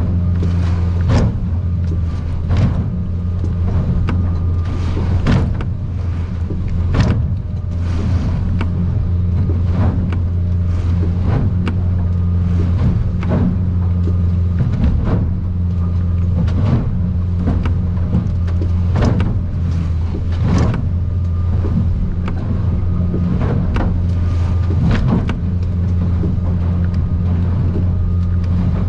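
Outboard engine droning steadily, heard inside the cab of an aluminium Stabicraft 2050 Supercab running through rough water. Sharp slaps and bangs come every second or so, irregular, as the hull pounds into the swells.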